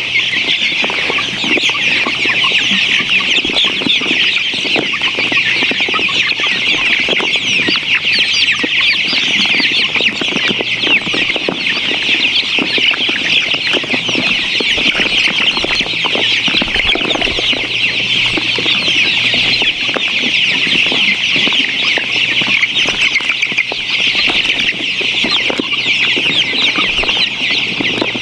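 A large flock of chickens calling all at once: a dense, continuous, high-pitched chorus of many overlapping calls.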